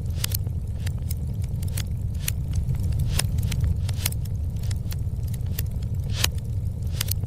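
Wood fire in a fireplace crackling, with sharp irregular pops a few times a second over a steady low rumble.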